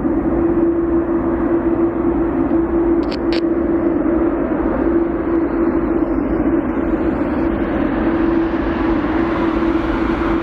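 Jet airliner engines running steadily: a loud, even noise with a steady low hum. The higher hiss grows over the second half.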